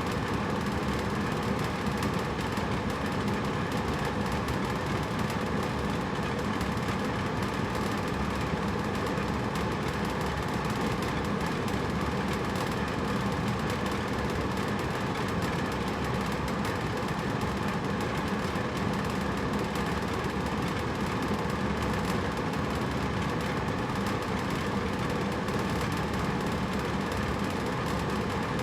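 Hotel room air conditioner running steadily: a constant rushing hum of the fan and compressor with no changes.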